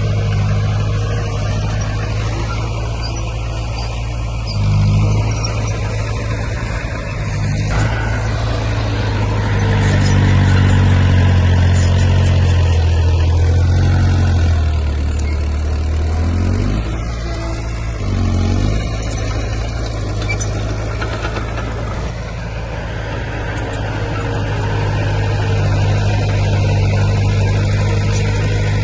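Heavy diesel engine of earthmoving machinery running steadily under work, its pitch sagging for a couple of seconds about halfway through and then picking back up.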